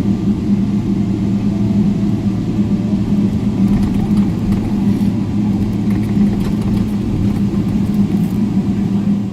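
Steady cabin rumble of a Boeing 777-300ER heard from a passenger seat while taxiing, its GE90 engines and air conditioning giving a low even hum. A few faint clicks from about the middle on.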